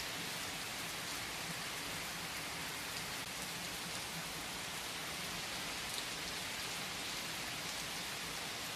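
Steady rain falling, an even hiss with scattered drop ticks, a slightly louder tick about six seconds in.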